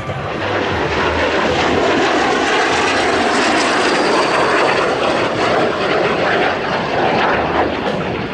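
Canadair CT-133 Silver Star (T-33) jet trainer, its Rolls-Royce Nene turbojet, flying past at an airshow display. The sound is a loud, steady jet rush that swells about half a second in, with a faint falling whine through the middle.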